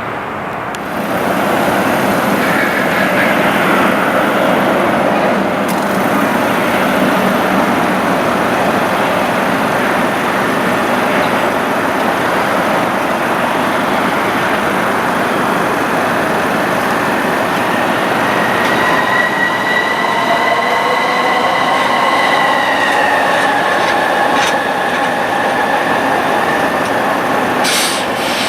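Jet airliner engines running loud and steady, a high whine over a broad roar; about two-thirds of the way through the whine dips slightly in pitch.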